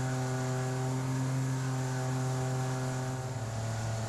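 Outboard motor of an inflatable jet boat running steadily under way. The engine note drops slightly about three seconds in as the revs ease off.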